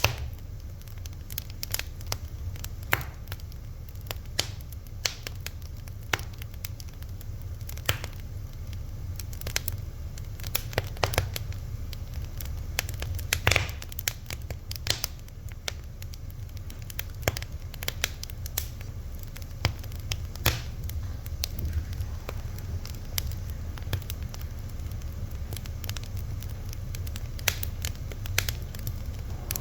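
Wood fire crackling: irregular sharp pops and snaps, some louder than others, over a steady low rumble of burning.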